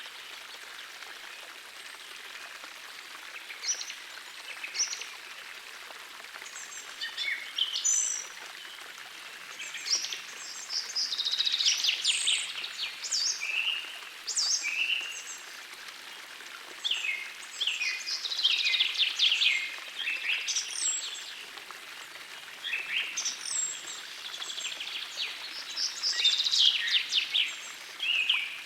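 Several songbirds singing in quick, repeated trilling phrases over the steady rush of a forest stream. The birdsong is sparse at first and becomes denser and louder after about ten seconds.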